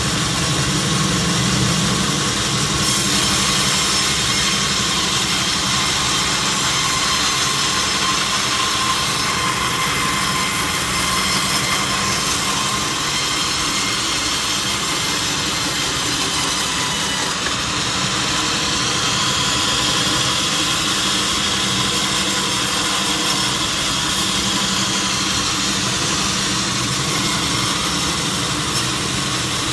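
Sawmill machinery running steadily through a teak log sawing job: a constant loud mechanical drone with a high whine, and higher tones that slowly bend in pitch in the second half.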